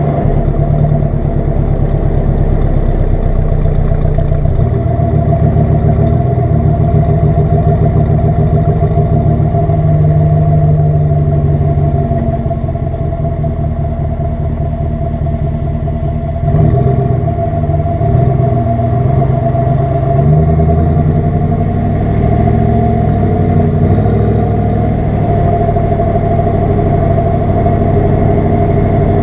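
Ram pickup truck's exhaust note, engine running steadily, with a brief rise and wavering in the engine note about 17 seconds in.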